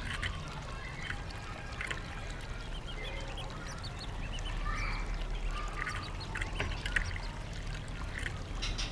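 White-rumped shama singing: a scattered run of short chirps and clicks.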